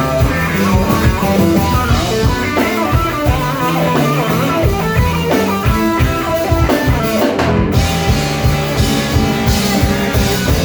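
Live blues-rock band playing an instrumental passage: electric guitar over bass and a drum kit keeping a steady beat.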